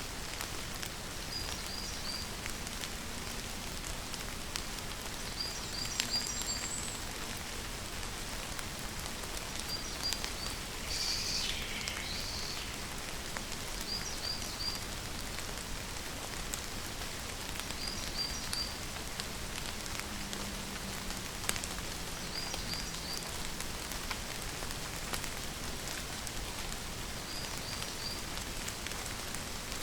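Steady rainfall hissing evenly, with scattered individual drops ticking. Over it, a short high chirp of three or four quick notes repeats about every four seconds, and once, about eleven seconds in, a longer call slides down in pitch.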